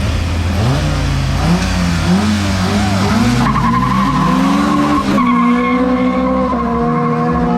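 Street-race cars accelerating hard from a launch, the engine note climbing and dropping back with each gear change, then holding a steady high pitch at speed.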